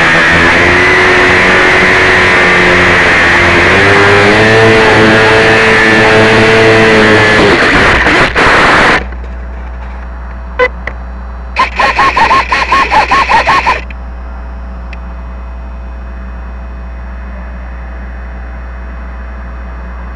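Electric motor and propeller of a small RC plane heard through a keychain camera mounted on its belly, very loud and distorted with wind noise, the motor pitch rising about four seconds in. About nine seconds in it cuts off suddenly to a steady low hum, broken near the middle by a couple of seconds of rapid pulsing with a warbling tone.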